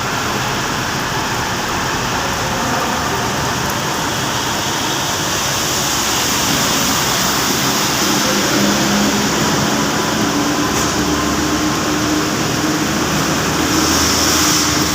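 Heavy rain falling steadily, an even hiss of rain, with a faint low hum coming in during the second half.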